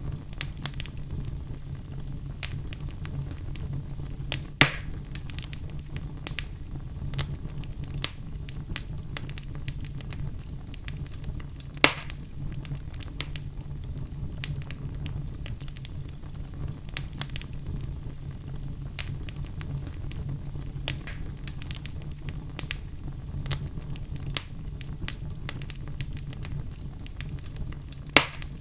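Log fire in a fireplace burning with constant crackling and small snaps over a low steady rumble. Three louder pops stand out: about four and a half seconds in, around twelve seconds, and near the end.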